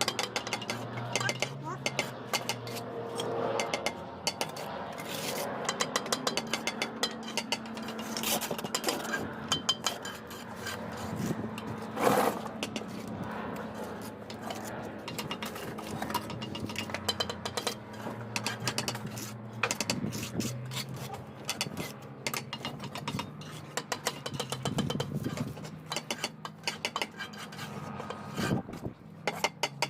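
Steel trowel scraping mortar and tapping bricks into place: repeated quick scrapes and clinks over a steady low hum.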